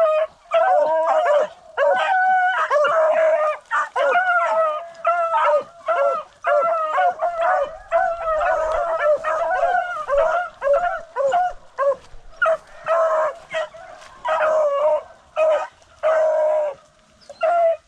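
A pack of beagles baying in chorus while running a rabbit's trail, many overlapping howling calls repeated almost without a break.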